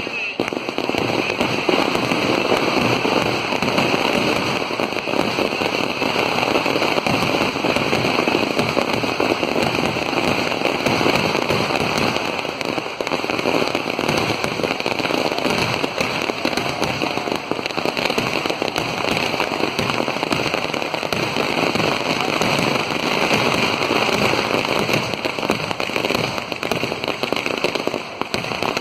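Dense, continuous crackling of many firecrackers going off in rapid succession, a steady rattle of countless small bangs with no pause.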